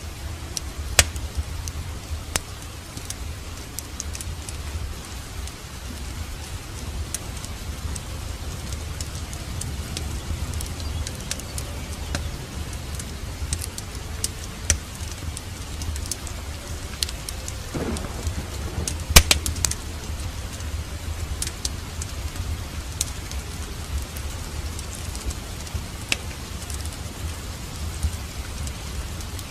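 Steady rain mixed with the low rumble and scattered sharp crackles and pops of a wood fire in a fireplace. The loudest snap comes about two-thirds of the way through.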